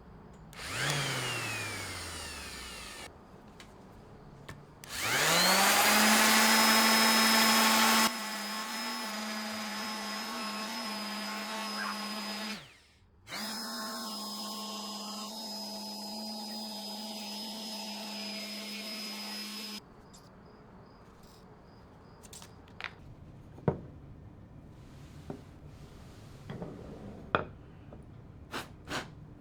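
A small electric power tool winds down at the start, then is switched on again, spins up and runs at a steady pitch for about fifteen seconds. It is loudest for the first few seconds, briefly cuts out about halfway, then stops, and scattered light knocks and clicks follow.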